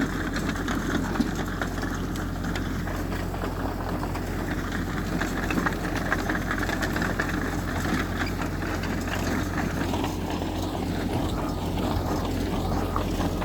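Heavy diesel earthmoving machinery running steadily, a constant low engine drone.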